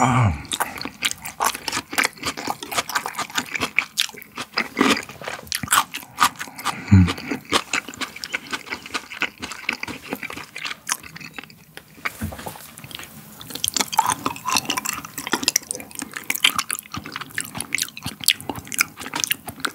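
Close-miked wet chewing of raw beef, with many quick, sticky mouth clicks and smacks. There is a short, low falling vocal hum at the start and again about seven seconds in.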